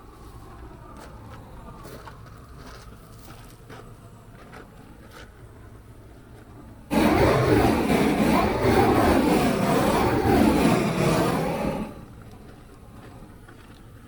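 Propane blow torch flame blasting at bees for about five seconds, starting suddenly about halfway through and cutting off abruptly, with a wavering tone in the noise. Before it there is only faint background with a few light clicks.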